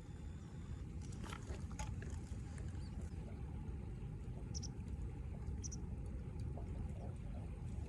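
Wood campfire burning, with scattered crackles and pops over a steady low rumble; two short high chirps about a second apart near the middle.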